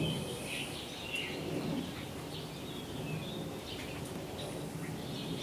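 Birds chirping outdoors: many short, scattered calls over a steady low background hum.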